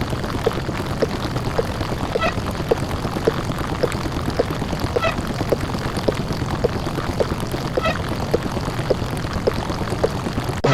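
A distorted, 'deep-fried' microwave-oven hum from a sound-effects counter, droning steadily and loud. Over it runs a regular tick about every half second, one per count, with a higher chirp on every fifth tick as the base-five count carries into the next digit.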